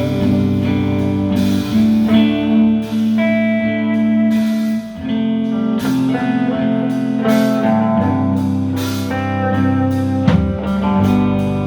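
Live band playing an instrumental passage between verses, led by guitar with sustained chords and melody notes, and a steady beat of sharp strikes underneath.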